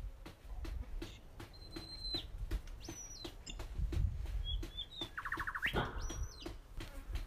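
Birds calling with high whistled notes, some held steady and some sliding down, and a short buzzy note a little past the middle, over a quick, regular ticking and a low rumble.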